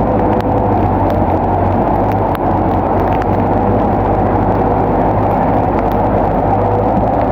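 Bulldozer's diesel engine running steadily under load, with faint clicks and clanks.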